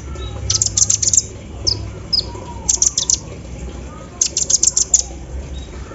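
Kolibri ninja sunbird singing in rapid clusters of high, sharp, clicking chirps, a burst every second or so, in the machine-like 'embroidery machine' song fill it has been trained on.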